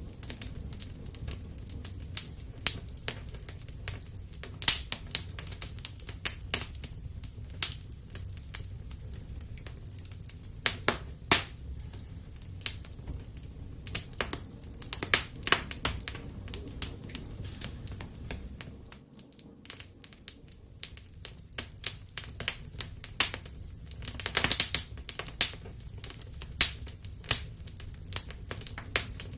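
Wood fire burning in a fireplace: irregular sharp pops and crackles over a low, steady rumble of the flames. The rumble briefly fades about two-thirds of the way through, and a quick run of crackles follows a few seconds later.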